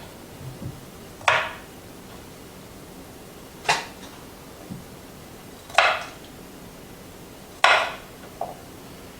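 Kitchen knife chopping the ends off radishes on a cutting board: four sharp chops about two seconds apart, with a few fainter taps between.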